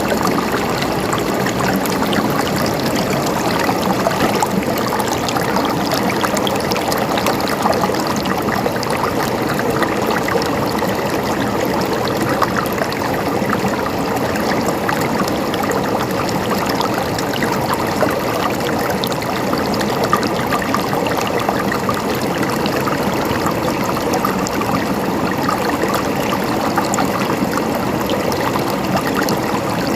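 Running water of a stream, gurgling and splashing steadily without a break.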